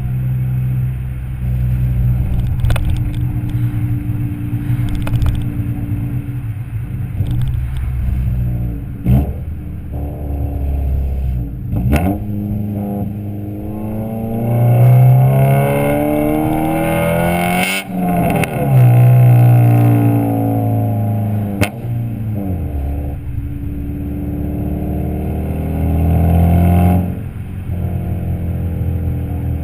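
Honda B16A2 inline-four's exhaust note through a Skunk2 Alpha header, decat pipe and Megapower R exhaust, running steadily, then climbing in pitch for several seconds to a brief cut past the middle and falling back, with another rise near the end. A few short sharp clicks stand out above it.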